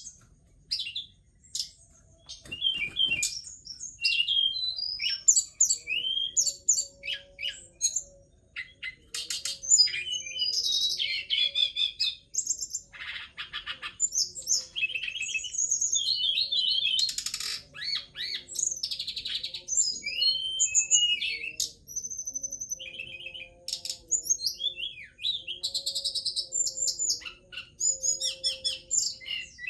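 Tledekan gunung (a small songbird) singing almost without pause: quick, varied high chirps, rapid trills and sliding whistles, broken by short gaps.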